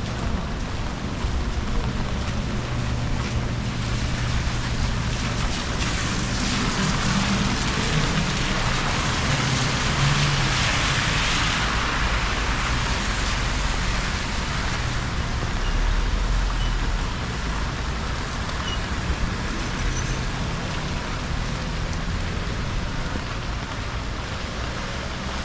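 Traffic on a wet road in the rain: steady tyre hiss and engine hum, with a vehicle passing and its hiss swelling and fading around the middle.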